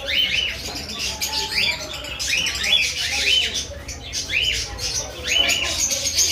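Caged parrots giving repeated shrill chirps in quick little clusters, over a faint background murmur of voices.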